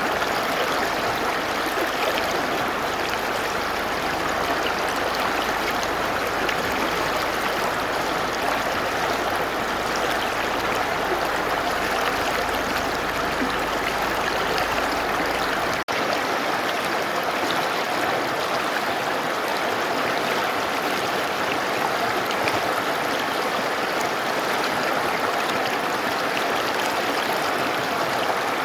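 Mountain river rushing steadily over rocks, a dense even rush of water. About halfway through there is a momentary dropout, after which the low rumble underneath is gone.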